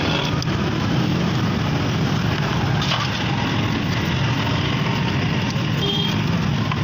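An engine running steadily at idle, with a couple of faint clicks.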